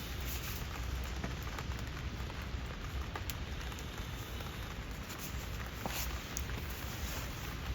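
Rain falling steadily, an even hiss with scattered sharper drop ticks.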